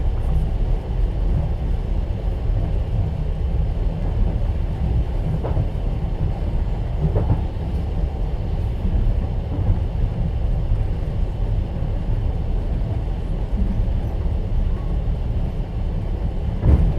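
Steady low rumble of a passenger train running, heard from inside an open-plan sleeper carriage, with a couple of faint knocks and a sharper knock near the end.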